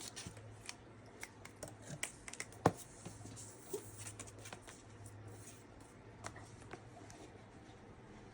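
Scattered light clicks and scratchy taps, with one sharp knock near the three-second mark, over a low steady hum.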